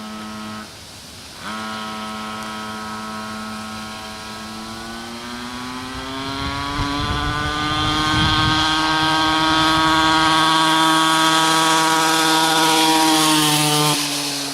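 Motorcycle engine running. Its pitch climbs a few seconds in as it gets louder, holds high, then drops near the end.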